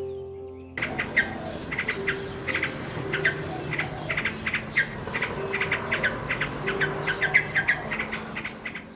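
A dense chorus of short, rapid chirps starts suddenly about a second in, over soft held tones of background music.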